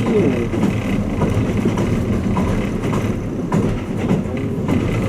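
Running noise of the Twilight Express Mizukaze heard inside a passenger cabin: a steady rumble with a few faint clicks from the wheels on the rails.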